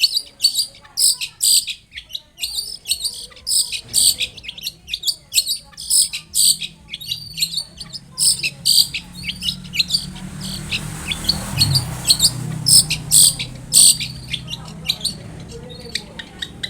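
Long-tailed shrike (cendet) singing: a fast, continuous chatter of short, sharp high notes, several a second. A low hum comes in under it about halfway through.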